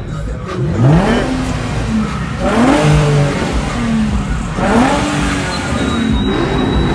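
A car engine being revved hard over and over, about four revs, the pitch climbing quickly on each and holding before it drops.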